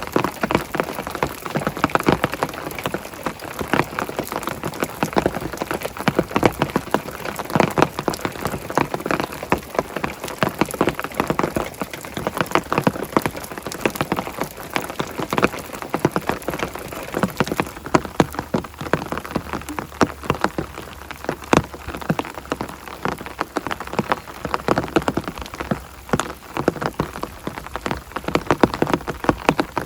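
Heavy rain falling steadily, a dense patter of individual drops striking close by.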